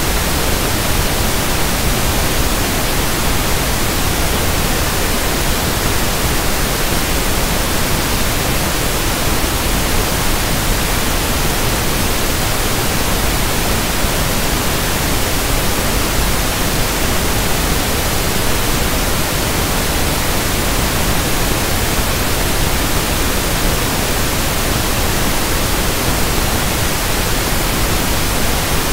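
Steady synthetic pink noise (1/f noise): an even, unchanging hiss across the whole range, with no events.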